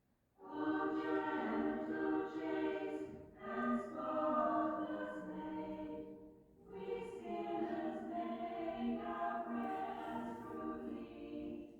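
Choral music: voices singing sustained chords in three long phrases, with breaths between them, cut off abruptly at the end.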